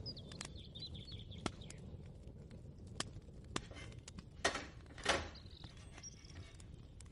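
Kitchen ambience: scattered light clicks and knocks, with two louder scraping bursts about two-thirds of the way through, over a low steady rumble. A faint wavering high tone sounds in the first second and a half.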